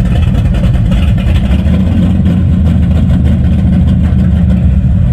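Classic car engine idling with a loud, steady, deep rumble.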